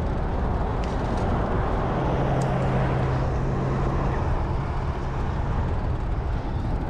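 Road traffic noise with wind rumbling on the microphone while cycling; a vehicle engine hums steadily for about three seconds in the middle.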